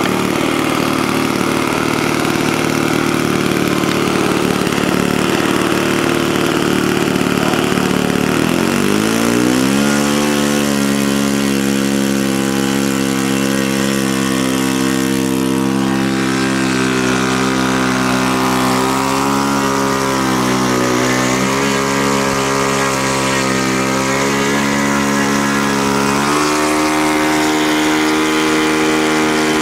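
An engine running steadily, rising in pitch about a third of the way in and then holding, with a brief dip and a step down in pitch near the end.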